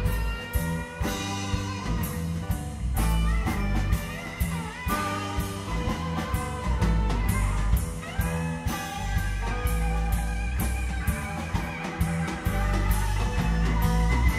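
Live blues-rock band jamming without vocals: a lead guitar plays bending melodic lines over bass and a steady drum beat.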